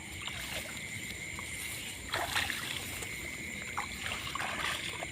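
Light splashing and sloshing of water in a few short bursts, over a steady high-pitched insect drone.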